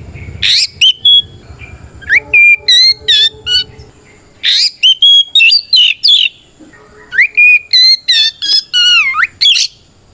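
Oriental magpie-robin (kacer) singing its full 'ngeplong' challenge song, the call to a rival: loud, varied phrases of whistles, quick chirps and sharp rising and falling glides, in bursts with short pauses between them. A low rumble runs underneath for the first few seconds.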